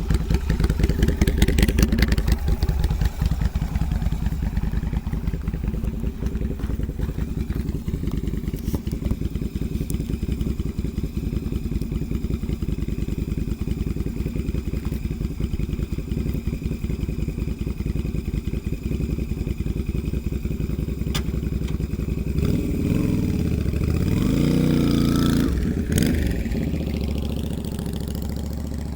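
Yamaha Virago 250's air-cooled V-twin engine running at a steady idle, with the revs briefly rising and falling near the end.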